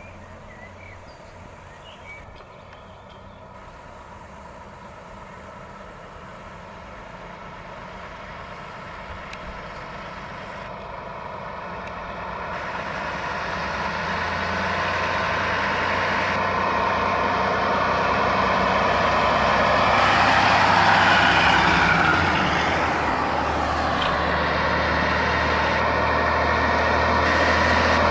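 Vintage Fiat truck's diesel engine running and drawing steadily closer, growing louder. About three-quarters of the way in it passes close, its pitch falling as it goes by, and the engine stays loud afterwards.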